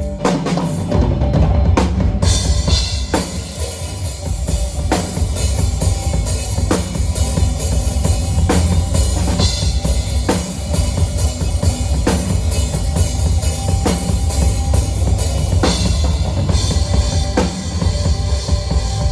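Live drum kit, with kick drum, snare and cymbals, playing a steady beat along with the band, with a heavy low end throughout.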